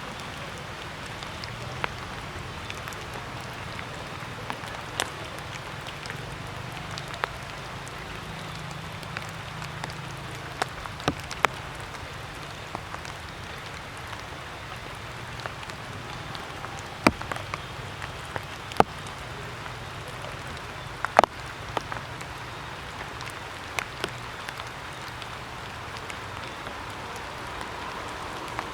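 Water drops falling on leaves and hard surfaces after rain: irregular sharp drop hits, a dozen or so standing out, over a steady hiss and a faint low hum.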